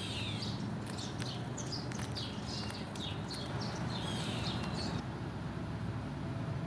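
Small birds chirping: a run of short, high, falling chirps that stops about five seconds in, over a steady low rumble.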